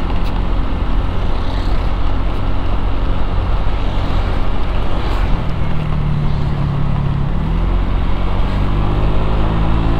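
Street traffic: motor vehicle engines running under a steady low rumble. One engine's pitch rises near the end, as it accelerates.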